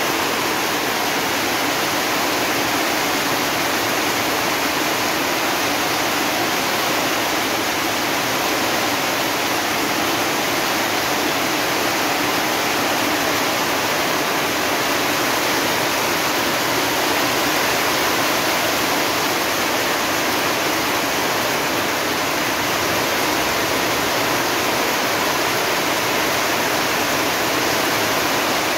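Torrential monsoon rain pouring down on corrugated metal roofs and a muddy yard, a loud, steady, dense hiss with no break.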